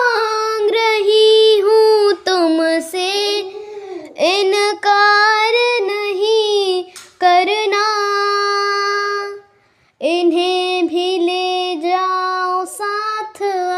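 A girl singing an old Hindi film song unaccompanied, in a clear high voice, holding a long note about two-thirds of the way through, then pausing briefly before she goes on.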